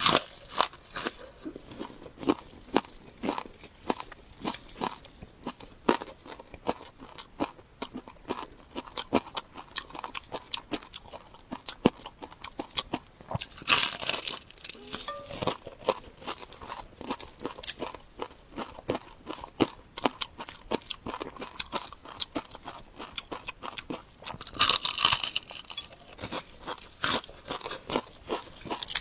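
Close-miked eating: irregular crunching and chewing mouth sounds, with louder, noisier stretches about halfway through and again near the end.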